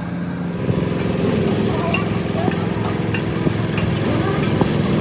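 A motor running steadily, growing louder a little under a second in, with several sharp knocks scattered through it.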